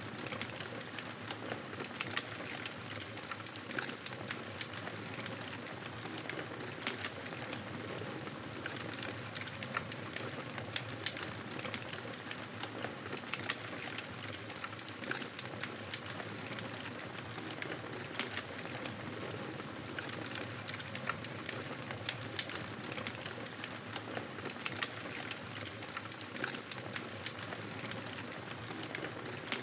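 Wood fire crackling in a fireplace: a steady soft hiss with many sharp snaps and pops scattered through it.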